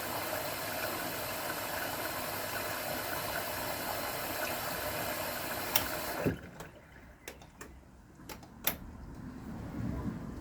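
AEG Öko_Lavamat 693 washing machine running with a steady churning noise that cuts off about six seconds in, its motor winding down in a short falling hum. Several sharp clicks follow, then a low rumble rises near the end.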